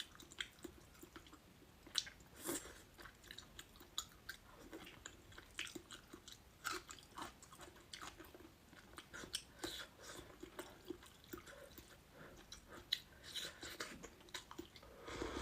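A person chewing food close to the microphone: faint, irregular mouth smacks and small clicks, several a second.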